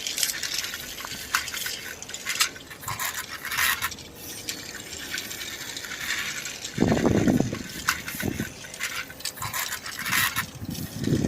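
Plastic toy dump truck being handled and run along, with irregular clicks and rattles of its plastic parts. Two stretches of lower rumbling come in, about seven seconds in and near the end.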